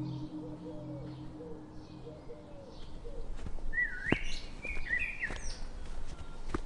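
Birds calling: a few swooping, whistled chirps about four to five seconds in, over a row of faint, lower repeated calls in the first half. A few sharp clicks, most likely dry leaves crackling underfoot.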